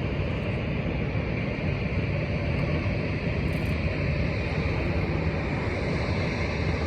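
Steady jet airliner noise: an even roar with no distinct tones, growing slightly louder partway through.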